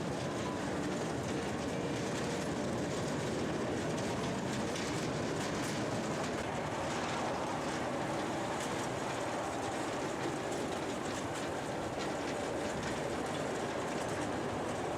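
10-inch-gauge miniature train running along its track: a steady rolling rumble of wheels on rail with scattered light clicks.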